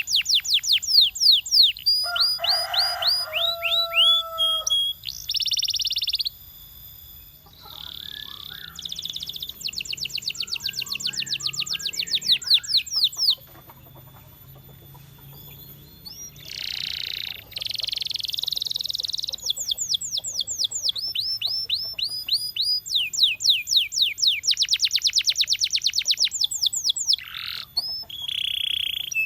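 Domestic canary singing: long, fast trills of rapidly repeated high sweeping notes, broken by short pauses and a few harsher buzzy notes.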